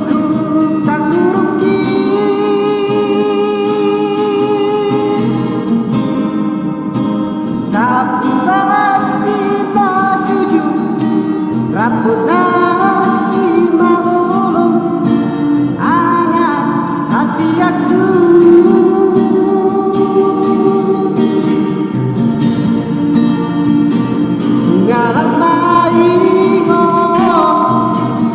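Solo voice singing a Batak song in long held notes with a wavering vibrato, over guitar accompaniment.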